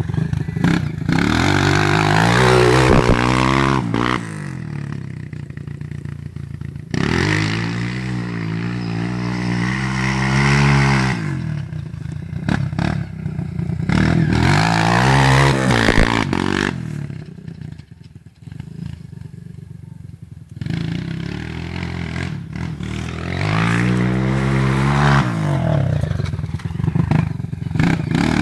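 Motocross bike engine revving up and backing off over and over while being ridden through tight turns. The sound drops quieter three times between passes and then comes loud again.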